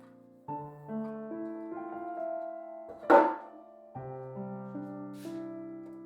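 Soft, slow background piano music. A single sharp knock cuts through it about three seconds in and is louder than the music, and a brief high rustle follows about two seconds later.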